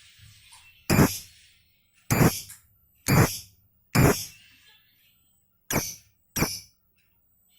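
Pet lovebird giving six loud, short, shrill calls in an uneven run, with brief pauses between them.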